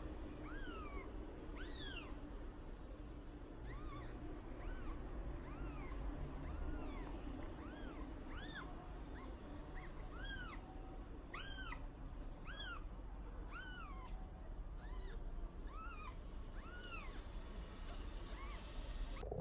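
A week-old kitten mewing over and over: short, high cries that rise and fall, about one a second, over a faint steady low hum.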